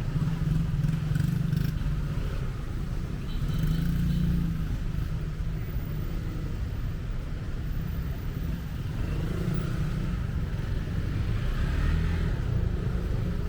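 Road traffic on a city street: a steady low rumble of cars and motorbikes passing, swelling and easing several times as vehicles go by.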